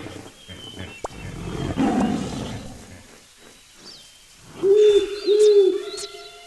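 Wild animal calls: a low rough growl swelling about two seconds in, then two loud pitched calls that rise and fall near the end and settle into a held tone, with faint bird chirps throughout.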